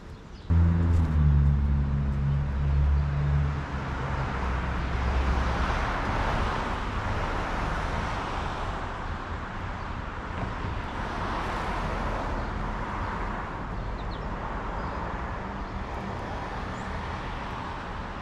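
A motor vehicle nearby: a low engine hum comes in suddenly about half a second in and fades over the next few seconds. A steady wash of road noise follows, swelling and easing.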